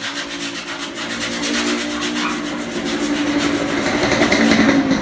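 Sandpaper on a sanding block rubbed back and forth over a bare metal body panel, smoothing the surface after the paint has been ground off: a steady rasping made of quick, even strokes. A low hum grows louder toward the end.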